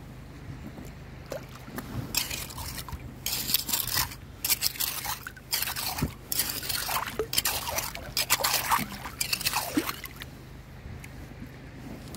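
Shallow river water splashing and sloshing in irregular bursts, starting about two seconds in and dying away near the end.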